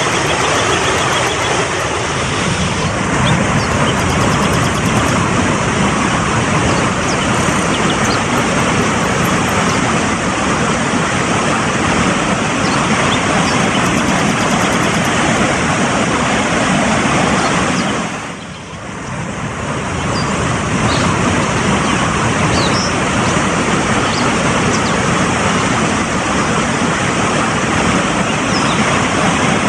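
Fast-flowing mountain stream rushing steadily, with a brief dip in loudness about two-thirds of the way through.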